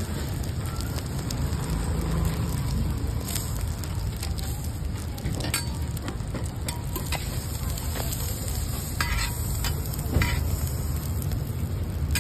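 A folded roti frying in butter on a flat steel griddle, sizzling steadily, with a few light clicks scattered through it and a low steady rumble underneath.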